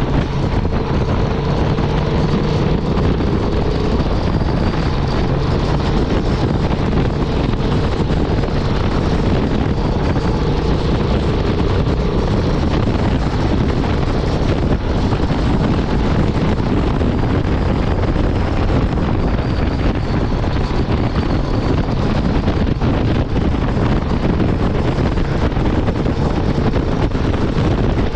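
Honda Transalp 750's parallel-twin engine running at a steady highway cruise, with no change in engine speed, mixed with heavy wind buffeting on the microphone.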